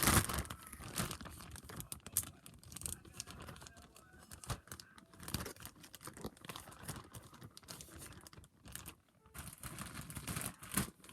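Irregular rustling and crinkling with small clicks and knocks, as of things being handled and moved about.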